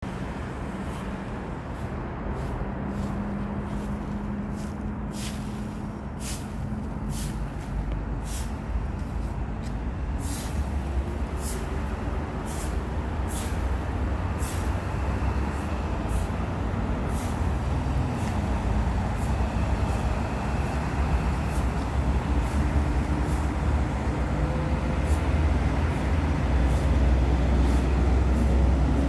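A broom sweeping dry fallen leaves: short scratchy strokes repeating about once or twice a second, thinning out in the second half. A steady low rumble lies underneath and grows louder toward the end.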